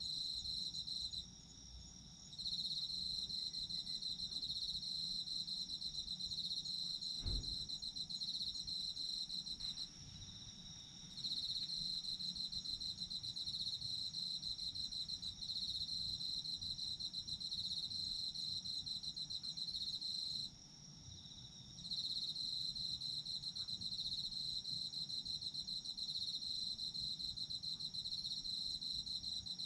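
Autumn insects singing in chorus: a loud pulsing trill that breaks off briefly three times, over a steadier, higher-pitched trill that never stops. A single soft low thump about seven seconds in.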